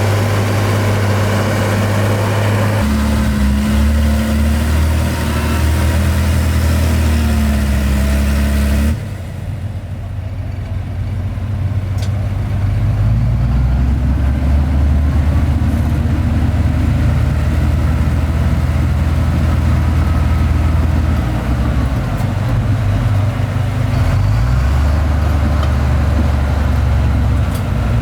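Diesel engines of heavy earthmoving machinery running steadily. The engine note changes abruptly about three seconds in and again about nine seconds in.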